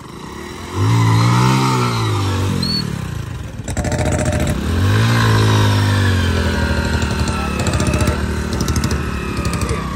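Hero Splendor motorcycle's small single-cylinder four-stroke engine revved hard twice, the pitch rising and falling each time, then held at steadier revs while the bike sits stuck in mud.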